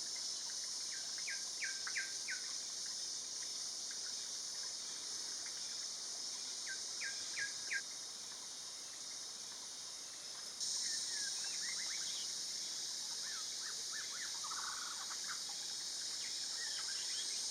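A steady, high-pitched insect chorus, with a bird's short, falling call notes in quick groups of three or four, several times.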